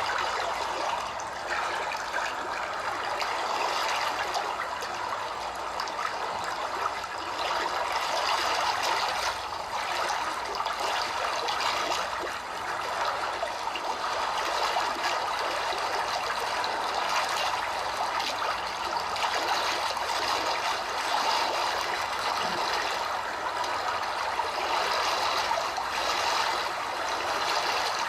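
A steady, even rushing noise like running water, with no clear breaks.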